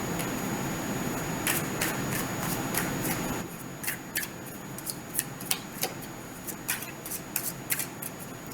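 A series of irregular sharp clicks and snaps, roughly one to three a second. For the first few seconds they sit over a steady hiss, which cuts off about three seconds in.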